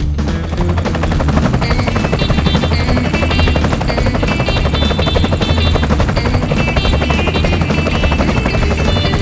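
DJI FPV drone's propellers whirring steadily in flight, a fast even chopping, with music playing underneath.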